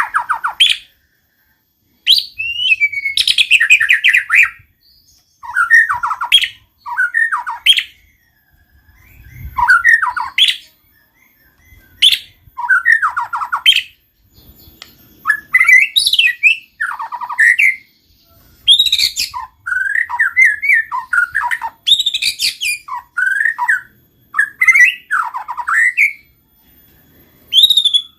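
A white-rumped shama singing steadily in short, varied whistled phrases, each about a second long, with brief pauses between them.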